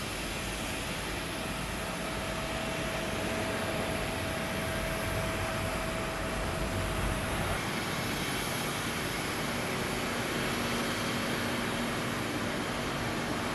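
Jet airliner engines running, a steady rushing noise that grows a little louder over the first few seconds, with a faint thin whine through the first half.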